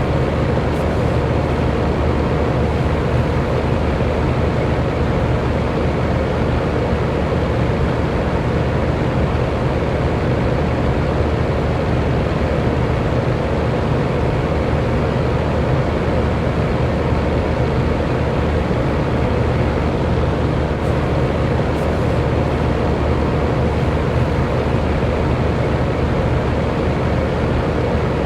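Electric fan running at a steady speed: an even rushing of air over a low motor hum, with no change in speed or level.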